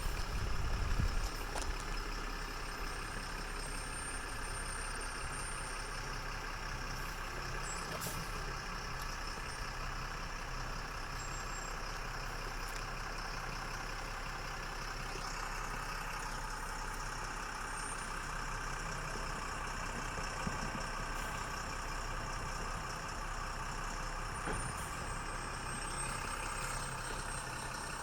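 Diesel engine of an M1079 LMTV military truck running steadily at low speed, louder for about the first second and then holding an even hum.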